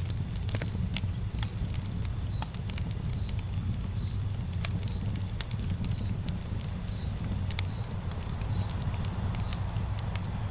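Campfire burning: a steady low rush of flame with sharp crackles and pops from the burning wood. A short high chirp repeats about once a second.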